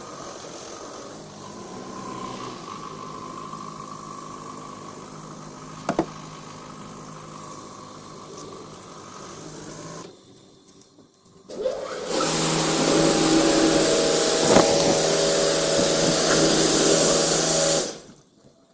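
Automatic touch-free car wash machine running: a steady motor hum with a sharp click about six seconds in. From about twelve seconds a much louder, steady hiss with a hum beneath it runs for about six seconds and then cuts off suddenly.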